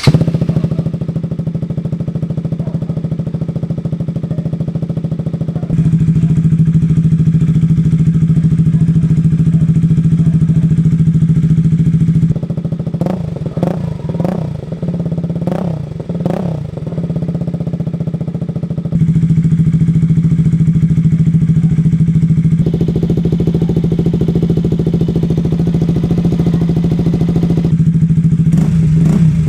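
KTM RC single-cylinder motorcycle engine running through an aftermarket R9 exhaust. It idles steadily, with a quick series of throttle blips in the middle before it settles back to idle.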